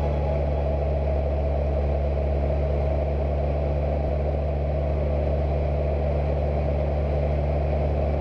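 Cessna 172 single-engine piston aircraft in flight, its engine and propeller giving a steady, unchanging drone.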